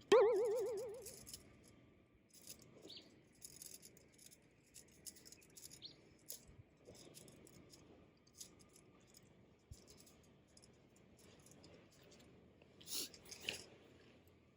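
Birds calling: a loud warbling call about a second long at the start, then scattered faint chirps and small clicks, with two louder chirps near the end.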